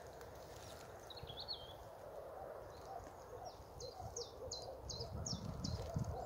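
Wild birds singing in woodland: a short warbled high phrase, then a run of about six quick, downward-slurred high notes, with fainter low calls repeating behind. A low rumble comes in about five seconds in.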